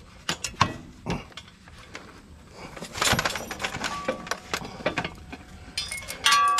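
Metal clinks and knocks of hitch pins and linkage being worked loose on a tractor's three-point hitch, with a ringing metal clang near the end.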